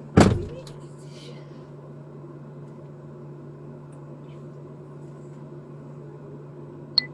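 A car door shuts with one loud thump, then a steady low hum fills the patrol car's cabin. Near the end come two short, sharp chirps.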